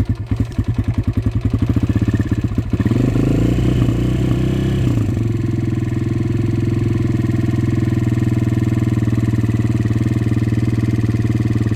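Kawasaki KLX140RL single-cylinder four-stroke dirt bike engine running on a cold start, in weather about 40 degrees colder than it is jetted for. It runs unevenly at first, picks up in a brief rev about three seconds in, then settles into a steady idle.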